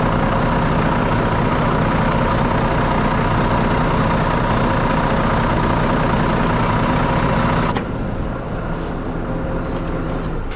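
Mitsubishi Fighter's 7.5-litre common-rail diesel running with the PTO hydraulic pump engaged, a steady engine note with a high whine over it. Near the end the whine and hiss stop suddenly and the engine runs on more quietly.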